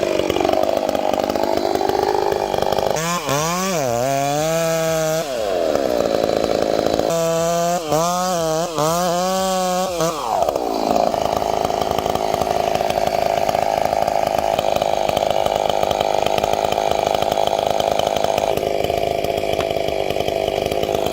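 Chainsaw running at high revs, cutting into a large tree. Its pitch wavers up and down in two stretches, about three seconds in and again about seven seconds in, then holds steady.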